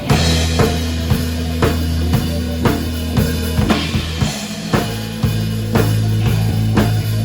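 Band music: a drum kit keeping a steady beat of about two hits a second over held bass notes, which move to a new note about four seconds in.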